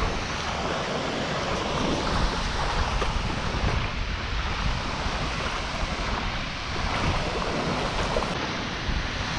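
Water rushing steadily over a river waterfall, with wind buffeting the microphone.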